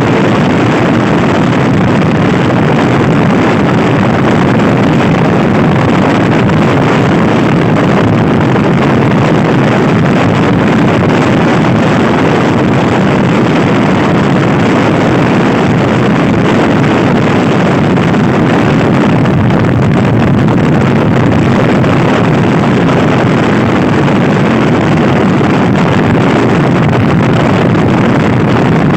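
Loud, steady wind rushing over the microphone while a Honda Scoopy-i scooter is ridden at speed, with the scooter's engine running underneath.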